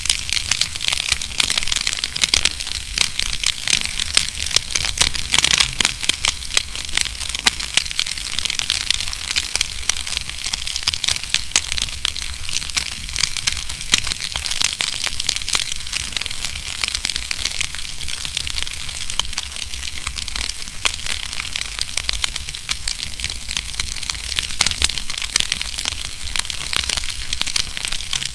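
Wood fire crackling in a fireplace: a dense, steady stream of small snaps and pops over a low rumble.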